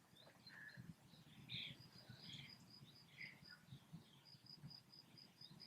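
Faint birdsong: scattered short chirps, with a rapid, even series of high pips, about five a second, running through the second half.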